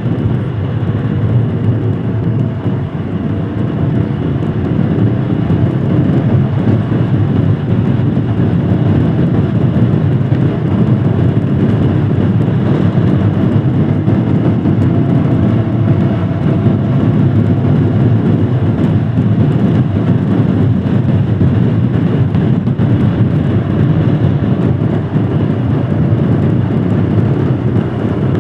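Royal Enfield Scram 411's single-cylinder engine running steadily under way, mixed with road and wind noise. A faint tone rises and falls slowly as the engine speed changes.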